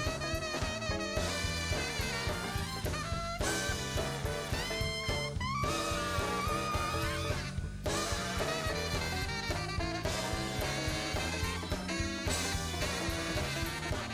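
Band music with a steady drum-and-bass beat under a melodic lead line, one note bending up in pitch about halfway through.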